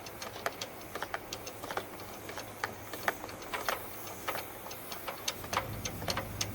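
Irregular light clicks and ticks, several a second, over a faint steady low hum, as a leaf blower forces lint and bird's-nest debris out through a clogged dryer vent duct and exit.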